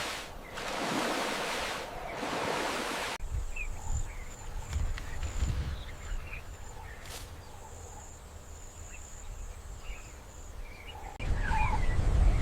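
Outdoor nature sound in cut segments. First comes a steady rushing noise like wind or water. Then a low wind rumble with scattered short bird chirps and a faint, high, steady buzz. About eleven seconds in, the wind rumble turns suddenly louder, with more chirps.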